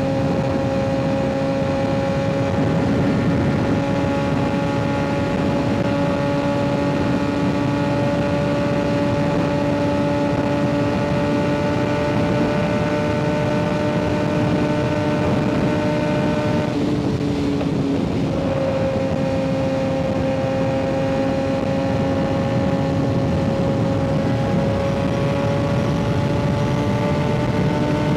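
Kawasaki ZX-6R 636 inline-four with an M4 aftermarket exhaust at steady cruising revs, the engine note slowly rising. About two-thirds through it briefly breaks and comes back at a slightly lower pitch, as at a gear change, then climbs again.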